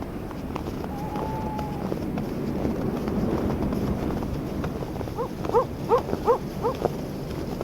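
Footsteps crunching on snow over a steady wind. Between five and seven seconds in, an animal gives about five short rising calls in quick succession.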